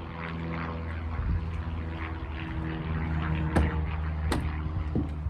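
A steady engine drone from outdoors, with two sharp clicks a little past the halfway point.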